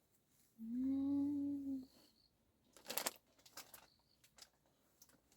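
A voice humming one steady note for just over a second, followed about a second later by a short scrape or rustle and a few light clicks.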